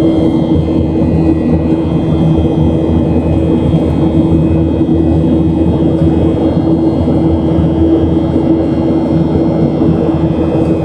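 Boeing 737-700's CFM56-7B jet engines and airflow heard from inside the cabin during the climb: a steady low rumble with a constant droning tone through it.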